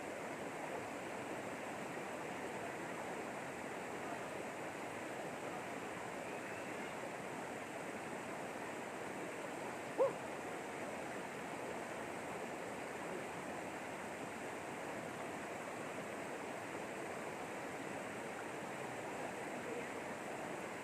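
River water flowing with a steady rush. A single short sharp sound stands out about halfway through.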